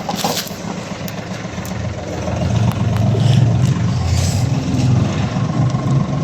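Vehicle engine idling with a steady low hum that grows louder about two seconds in.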